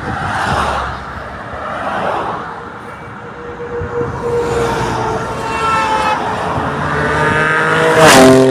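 Passing traffic at first, then a high-performance vehicle engine accelerating hard, its pitch climbing for several seconds to a loud peak as it passes close about eight seconds in, then dropping in pitch.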